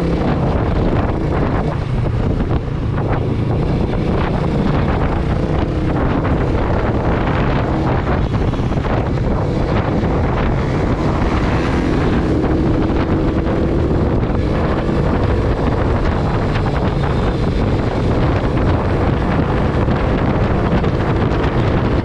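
Motorcycle being ridden at speed, its engine and exhaust running steadily under heavy wind noise on the microphone.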